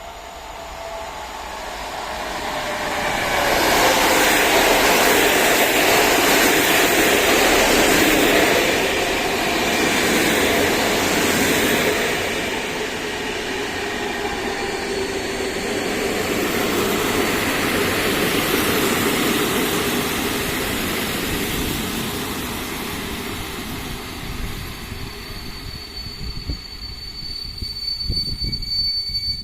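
Electric locomotive-hauled train running past, loudest a few seconds in and staying loud, with a thin high whine that sets in about halfway through and grows toward the end.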